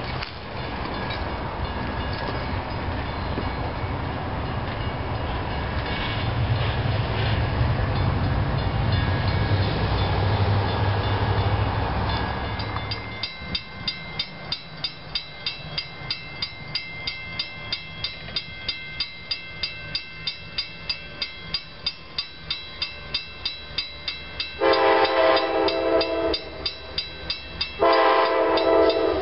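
A train rumbling past at a grade crossing. Then a railroad crossing bell ringing in a steady, even rhythm of about two to three strikes a second, and near the end an approaching train's horn sounds two long blasts over the bell.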